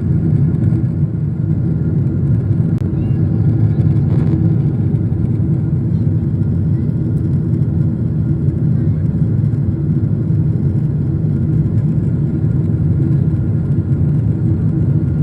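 Steady low drone of an airliner's cabin in flight: engine and airflow noise heard from inside the cabin, with a faint steady hum above it.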